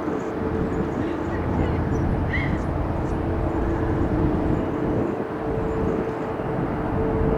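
Jet airliner engines rumbling steadily with a constant whine, the Boeing 777-300 on its departure, mixed with breezy wind noise on the microphone.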